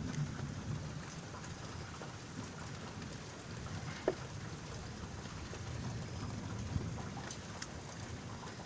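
Steady rain falling in a thunderstorm, with a low rumble underneath. Scattered sharp drip sounds, the loudest about four seconds in.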